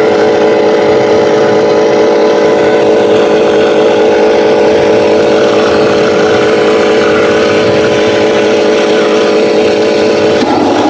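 Huina 1501 RC Scania 770S logging truck running with a steady, pitched engine-like drone. The tone shifts near the end.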